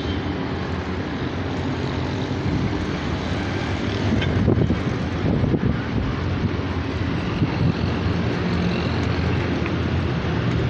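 A steady low rumble like a running engine or vehicle, a little louder about four to five seconds in.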